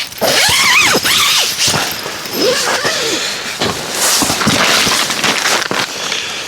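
Wood campfire crackling and popping in quick, irregular snaps, with a few short whistling squeals in the first half.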